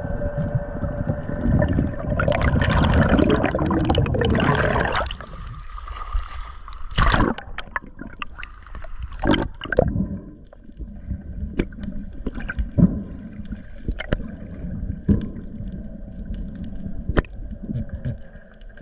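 Underwater sound around a diver: a loud rush of exhaled air bubbles for about three seconds that stops abruptly, then quieter gurgling with scattered clicks and pops, over a steady low hum.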